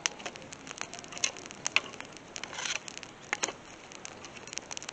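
Small campfire of dry twigs crackling as it catches, with irregular sharp pops and snaps over a faint hiss of burning.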